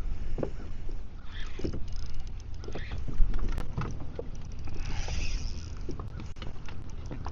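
Wind buffeting the microphone on a kayak, with scattered light knocks and two brief bursts of splashing water, about a second and a half in and again about five seconds in.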